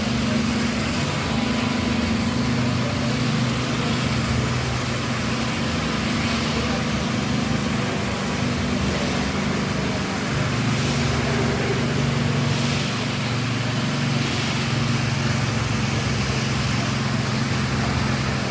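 Small engine of a power trowel running steadily as it finishes freshly poured concrete flooring, its engine note shifting about ten seconds in.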